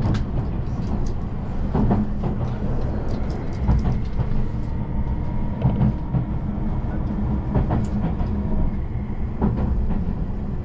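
Cabin noise of a Tobu Spacia X (N100 series) electric limited express train running: a steady low rumble with short knocks about every two seconds from the wheels over the track.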